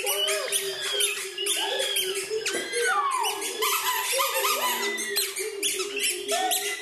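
A flock of birds calling all at once: a dense, unbroken chatter of short squeaky chirps and squawks, with a steady tone underneath.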